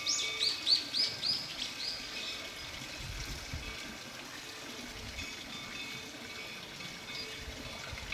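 A songbird sings a quick run of down-slurred whistled notes, about three a second, through the first two seconds, then gives a few fainter notes later. Faint steady high ringing tones and a soft outdoor hiss lie underneath.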